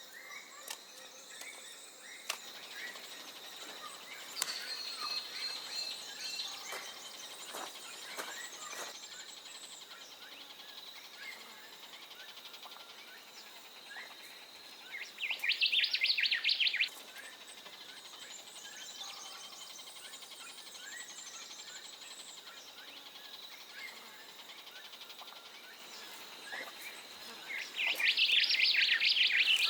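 Outdoor bird calls in the bush: many short chirps over a steady high-pitched tone, with two louder rapid trills of about two seconds each, one about halfway through and one near the end.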